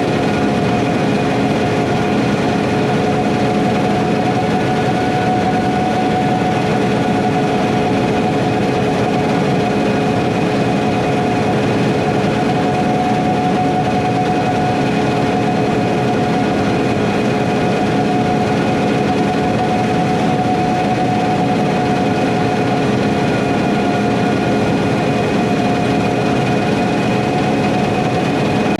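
Harvest machinery running steadily at constant speed: a dense mechanical rumble with a steady whine of a few held tones.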